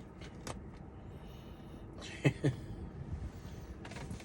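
Steady low rumble inside a car cabin, with faint clicks and rustles of food being handled, and two short hums or grunts just over two seconds in.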